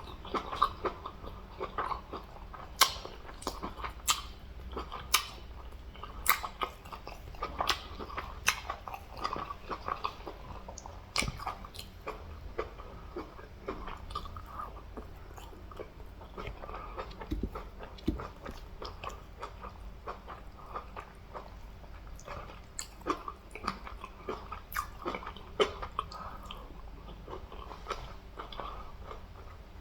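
Close-miked chewing and biting of a person eating fufu with egusi soup, fish and meat, with many irregular sharp mouth clicks and smacks.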